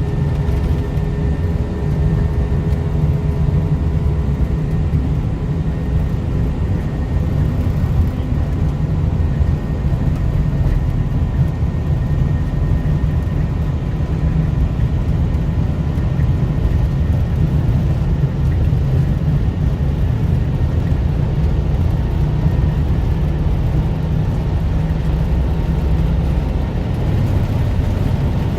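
Steady cabin noise of an Airbus A320 climbing: a loud, even low rumble of airflow and engines, with a few faint steady whines over it.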